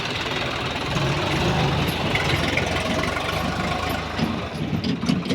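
Swaraj 744 FE tractor's three-cylinder diesel engine running steadily, with a few sharp clicks near the end.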